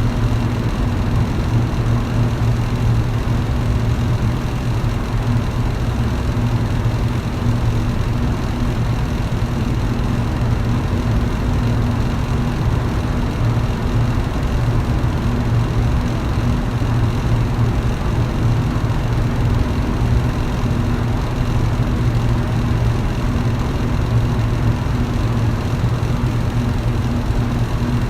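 Electric fan running steadily: a low, even motor hum over a constant rush of air.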